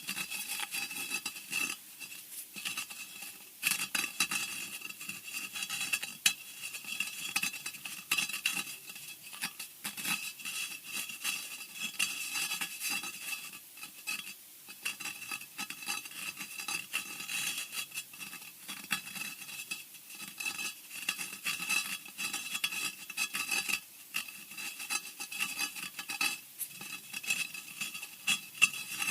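Scratching sound effect for horror: continuous, irregular scratching and scraping on a hard surface, full of sharp little clicks, with a thin high edge running through it.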